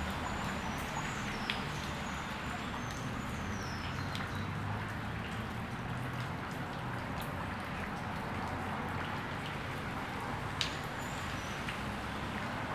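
Rain falling steadily into a shallow puddle: an even hiss of drops hitting the water, with two sharper drop sounds, about a second and a half in and again near the end.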